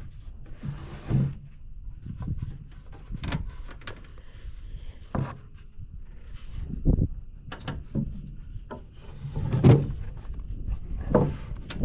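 Irregular knocks, clunks and thumps of hands-on carpentry on wooden roof framing, with a few louder thumps about 7 and 10 seconds in.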